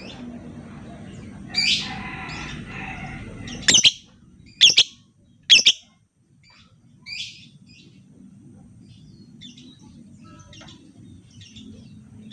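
Lovebird calling with sharp, shrill chirps. A longer call comes about a second and a half in, then three loud chirps about a second apart, another near the middle, and fainter chirps toward the end.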